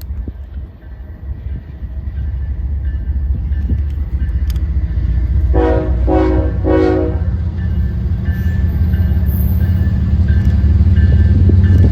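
Train approaching with a low engine rumble that grows steadily louder, and three short blasts of its horn about halfway through.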